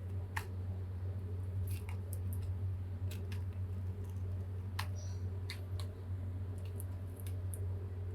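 Scattered light clicks and taps, a few each second at irregular intervals, from a kitten playing in a Christmas tree. A steady low hum runs underneath.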